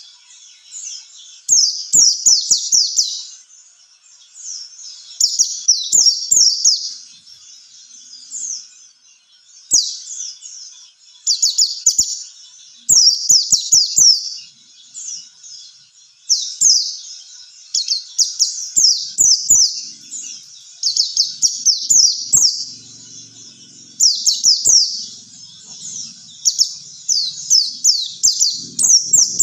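White-eye (pleci) singing: quick phrases of high, twittering notes that sweep downward, each phrase about a second long, repeated every two to three seconds.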